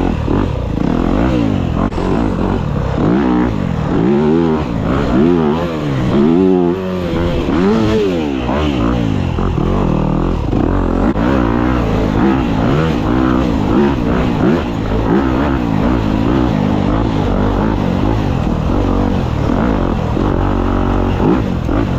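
Dirt bike engine revving, its pitch rising and falling again and again as it is ridden hard through the gears.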